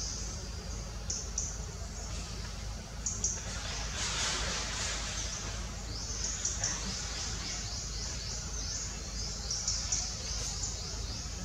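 Small birds chirping, short high notes repeated in quick series of about three a second in the second half, over a steady low background hum, with a brief rushing noise about four seconds in.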